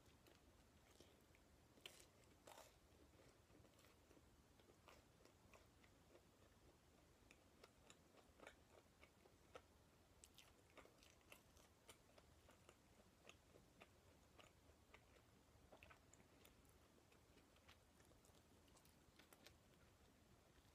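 Faint close-up chewing of potato-salad toast, with soft bites and small moist crackles scattered irregularly throughout, a few sharper crunches about two seconds in.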